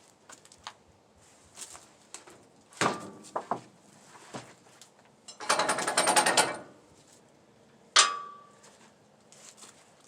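Freshly sawn pine boards and sawmill hardware being handled, with the saw not running: a few separate knocks, a rattling clatter lasting about a second midway, and a sharp clank with a brief metallic ring near the end.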